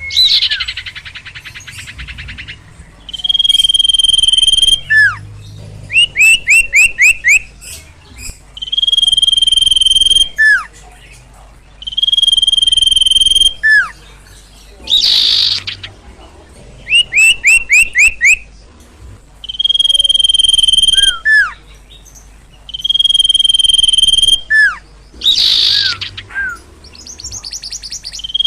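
Sirtu bird calling loudly and repeatedly, as bird keepers play it for luring: steady high whistles about a second and a half long alternate with quick runs of five or six down-slurred chirps and sharp falling notes, with two short harsh bursts, in a cycle that repeats several times.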